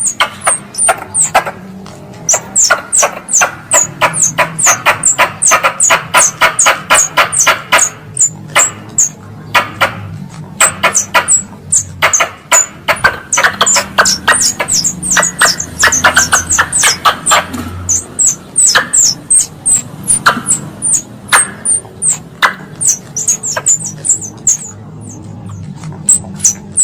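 Wild squirrel (tupai) calls: a fast, continuous series of short, sharp, high-pitched chips, several a second, each dropping slightly in pitch, mixed with rapid clicking chatter.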